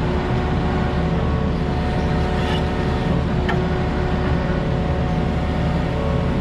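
Diesel engine of a piece of heavy construction equipment running steadily at a constant speed, with a faint brief squeak about three and a half seconds in.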